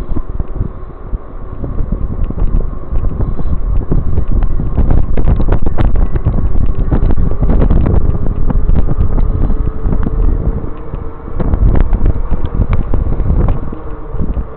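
Wind buffeting the microphone while riding an e-bike, with many small knocks and rattles from the ride and a faint steady whine under it.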